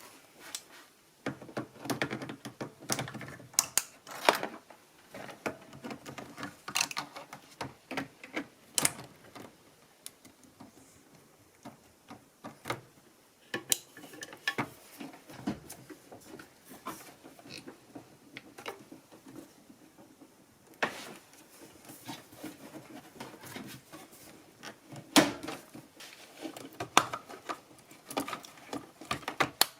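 Irregular clicks, knocks and rattles of hand work on washing machine parts while the recirculation pump assembly is being taken out. The loudest knock comes a little before the end.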